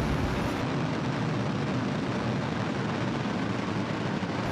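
Falcon 9 rocket's nine Merlin 1D engines firing during the first seconds of ascent: a steady rushing noise with no break.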